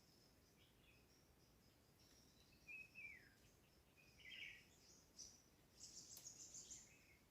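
Faint forest birdsong: scattered short bird calls, including a falling note about three seconds in, a brief trill, and a run of high, buzzy calls near the end.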